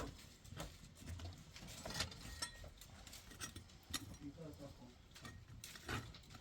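A few scattered light clicks and knocks, irregularly spaced, over faint low background noise.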